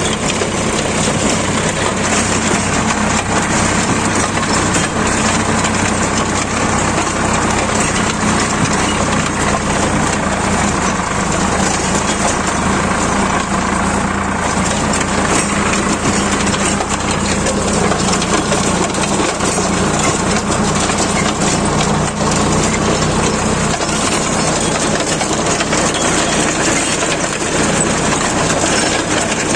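Sonalika 745 DI tractor engine running steadily under load, with a rotavator churning and crushing soil behind it.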